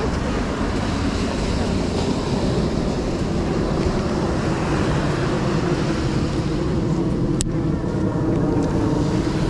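Ocean surf washing steadily, with wind rumbling on the microphone. A single sharp click comes about seven seconds in.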